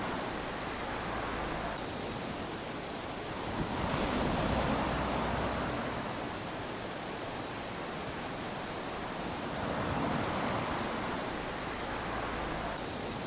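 Small sea waves lapping onto a sandy shore, each wash swelling and fading every five or six seconds over a steady hiss of surf.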